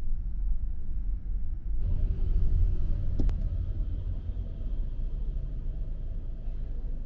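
Low, steady rumble of passing street traffic, with one sharp click about three seconds in.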